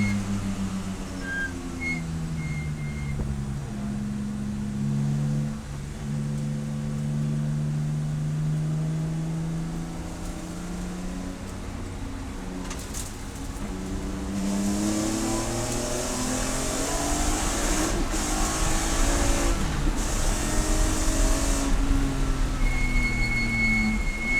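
Race car engine running hard. Its pitch falls in steps during the first few seconds, as on braking with downshifts, then holds low. From about two-thirds of the way in it climbs again several times under acceleration.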